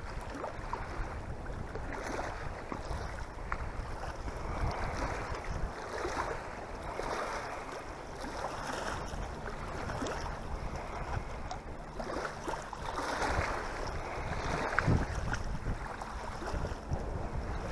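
Gusty wind on the microphone, a continuous rushing noise that swells and eases, with small waves lapping at the water's edge.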